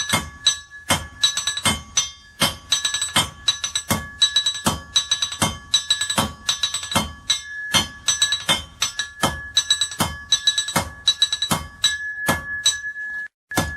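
Blacksmith's hammer forging iron on an anvil: a steady rhythm of blows, each ringing with a bright metallic tone, with lighter strikes between the heavier ones. The sound cuts out for a moment near the end.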